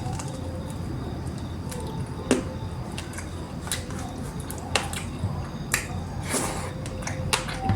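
Close-up eating sounds: a person chewing and tearing at tough country chicken in curry, with scattered sharp wet mouth clicks and smacks.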